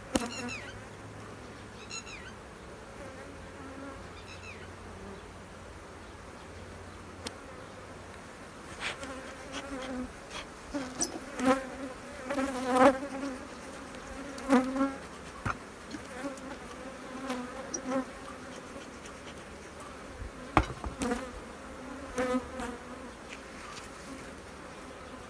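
Honeybees buzzing around an opened hive, with individual bees flying close past in loud, uneven passes from about nine seconds in until near the end. There are a few short high chirps in the first seconds and several sharp clicks.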